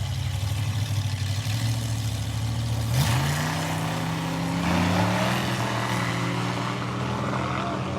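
Vintage drag car engine idling steadily; about three seconds in the throttle is blipped and the engine settles at a higher speed, then rises a little again about two seconds later.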